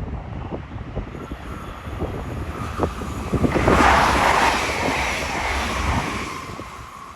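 An electric train passing. It builds to its loudest about four seconds in, then fades, with a steady whine running alongside.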